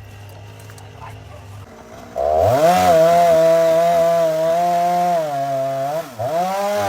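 A two-stroke chainsaw engine revving suddenly to high speed about two seconds in and holding there. Its pitch sags briefly twice near the end, then picks back up.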